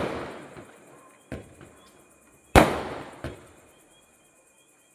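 Loud explosive bangs: one big bang about two and a half seconds in that fades out over about a second, smaller sharp pops at about a second and a quarter and just after three seconds, and the fading tail of a bang at the very start.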